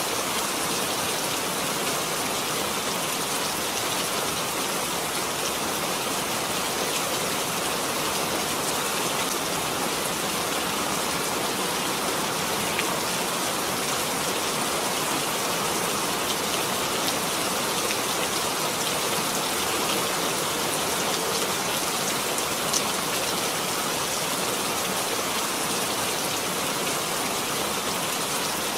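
Steady, heavy rain falling, an even hiss with scattered patter of individual drops.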